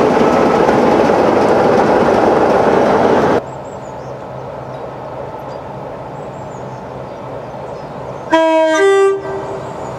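Class 33 diesel locomotive passing close by with its engine running loud, until an abrupt cut about three seconds in to a quieter low hum. Near the end a train horn sounds briefly, a lower note followed by a higher one, as a diesel multiple unit runs into the station.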